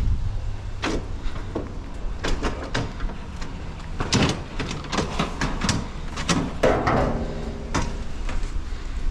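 Scrap metal pieces being handled and loaded: a string of irregular knocks and clanks with a short scrape near the end, over a steady low rumble.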